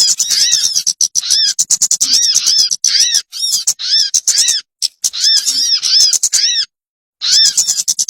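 Bird lure (pikat) recording: a busy run of rapid chattering with repeated arching, rise-and-fall call notes. It cuts out for about half a second near the end, then starts again.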